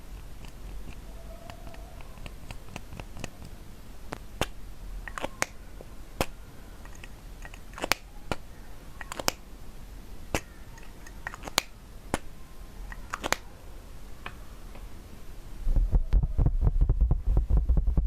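Close-miked ASMR trigger sounds: crisp, irregular clicks and taps, a few each second, over a faint low hum. Near the end they give way to a much louder, dense crackling with a deep rumble.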